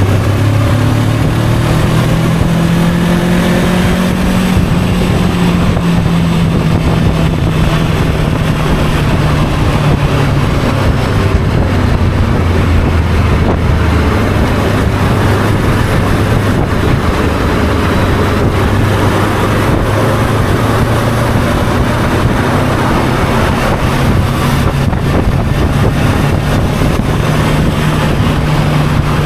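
Motorcycle engine running steadily while riding, over wind and road noise; the engine note eases slightly lower about a third of the way through.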